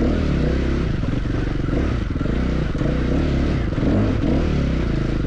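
Motorcycle engine under way off-road, its revs rising and falling repeatedly as the throttle is worked, over a steady rush of wind and clatter.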